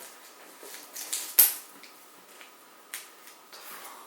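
Small packets of popping candy being handled: a few sharp clicks and crinkles of the packets, the loudest about a second and a half in.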